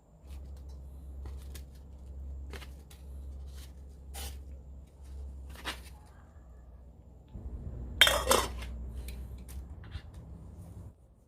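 Metal cookware and utensils being handled, with scattered clinks and knocks and one loud clatter about eight seconds in, over a steady low rumble.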